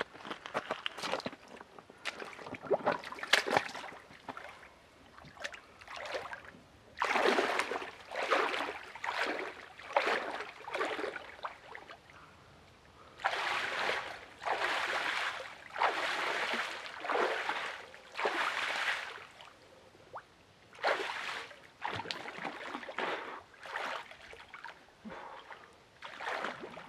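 A person wading into lake water, the water sloshing and splashing around the legs in a string of uneven surges with short pauses between them.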